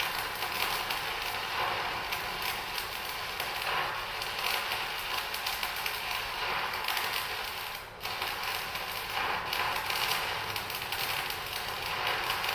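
Electric arc welding a vertical corner joint: a steady, dense crackle and sizzle from the arc, broken off briefly about eight seconds in.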